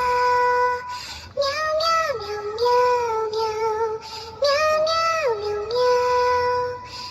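High-pitched, childlike synthetic singing voice carrying a simple melody: held notes that slide down from one to the next, in short phrases with brief breaks.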